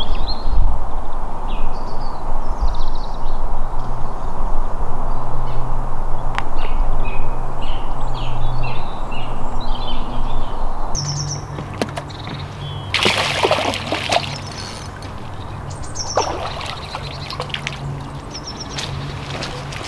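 Small birds chirping and twittering over a steady background rush that drops in level about halfway through. About two-thirds of the way through comes one brief, louder noisy burst.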